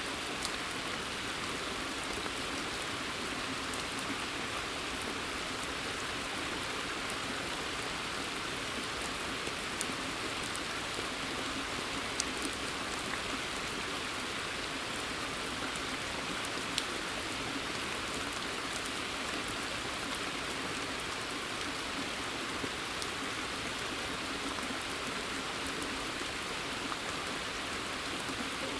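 Steady rain falling on a forest and onto a pond's surface: a dense, even hiss with scattered sharp individual drop ticks.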